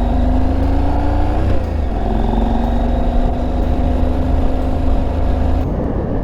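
KTM adventure motorcycle engine pulling under acceleration, over heavy low wind rumble. Its pitch rises, drops with an upshift about a second and a half in, then climbs slowly again, and the sound changes abruptly near the end.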